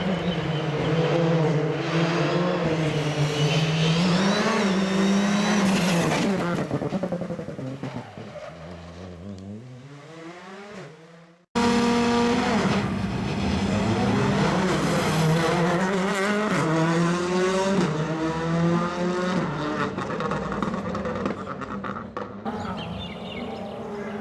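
Rally car engines at full throttle on a stage: one car revs hard and passes, its engine note dropping in pitch and fading as it goes away. An abrupt cut about halfway through brings in another car accelerating hard through its gears, with a touch of tyre squeal.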